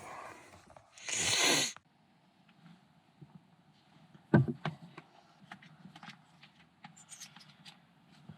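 A person's loud, drawn-out waking sigh about a second in, then quiet rustling and small clicks of someone moving around, with one sharp knock about four seconds in.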